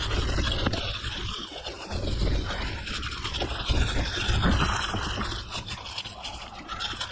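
Mountain bike tyres rolling over a gravel forest road, a continuous gritty scraping, with wind buffeting the microphone in uneven gusts.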